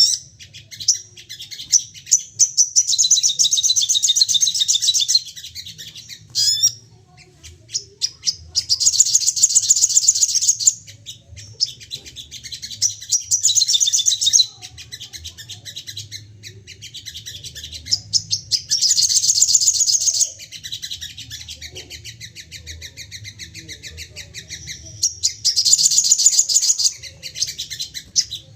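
Sogon singing in rapid, high-pitched chattering trills, in loud bouts of a few seconds with quieter chatter between them. This is the agitated, repeatedly 'firing' song of a worked-up sogon, used to provoke other birds to sing. A steady low hum runs underneath.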